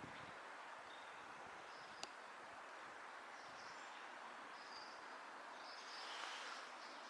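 Faint steady outdoor ambience with a few distant bird chirps scattered through it, and one small click about two seconds in.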